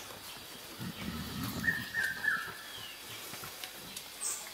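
Forest bird calling a short phrase of clear whistled notes that step down in pitch, heard once near the middle, over faint rainforest ambience, with a brief low rumble about a second in.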